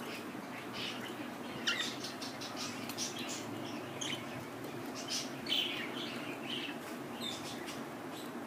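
Pet budgerigars chirping and twittering in quick, irregular short calls over a steady low background hum.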